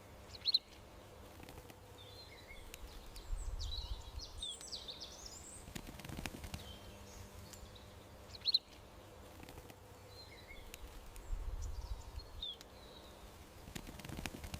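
Garden birds chirping and twittering: single sharp high chirps and short bursts of twittering, the same few calls coming round again about every eight seconds, over a low steady background rumble.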